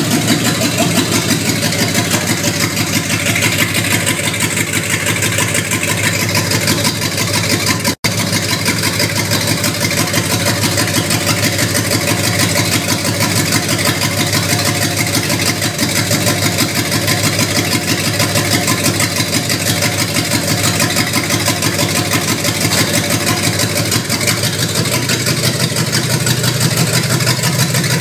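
1970 Dodge Charger's engine running steadily, with a fast, even exhaust beat. The sound cuts out for an instant about eight seconds in.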